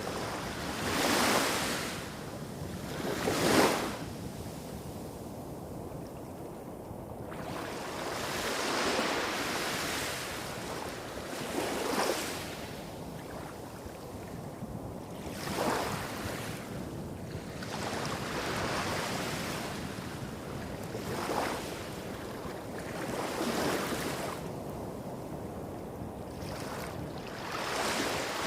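Small sea waves breaking and washing up a beach, a surge every few seconds, over a steady low rumble of surf hitting rocks a few hundred metres off.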